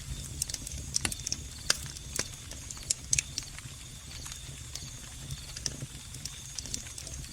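Wood fire crackling with scattered sharp, irregular pops over a steady high cricket trill and a low steady rumble.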